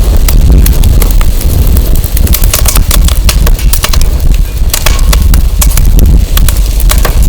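Firewood burning, with many irregular sharp crackles and pops, over a steady low rumble of wind on the microphone.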